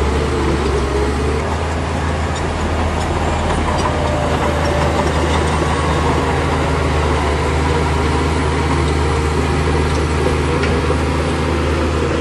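Bulldozer's diesel engine running steadily: a loud, deep, even drone with a few faint clicks over it.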